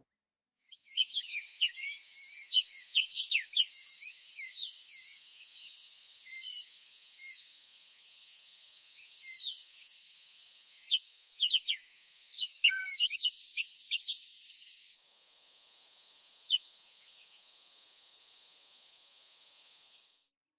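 Small birds chirping in quick bursts over a steady high insect drone. The chirps are busiest in the first few seconds and again about halfway through, and the sound cuts off abruptly near the end.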